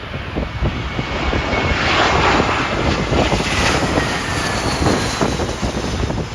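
A jet airliner on final approach passing low overhead: engine noise swells to a peak about two seconds in with a faint high whine falling slightly in pitch, then fades. Strong wind buffets the microphone throughout.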